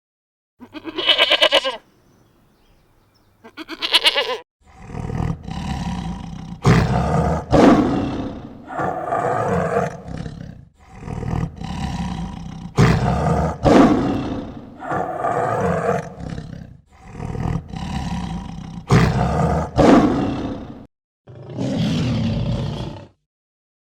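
Two short bleats, then a large animal roaring and growling over and over, each call lasting one to two seconds with short pauses between.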